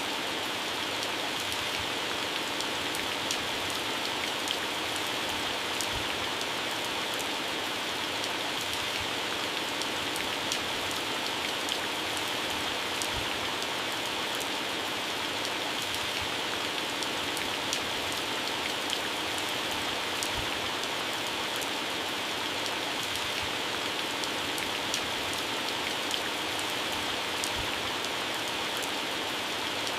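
Heavy rain falling steadily on garden plants and grass: a constant hiss with many sharp drop ticks on leaves and occasional heavier drips.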